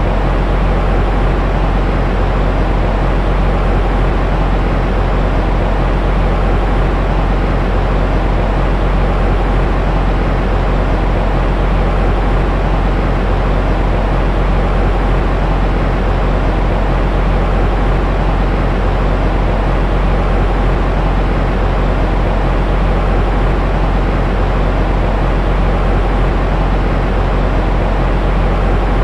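Steady, unbroken white noise for soothing a baby to sleep, weighted toward the deep end so it sounds like an even rumble more than a hiss.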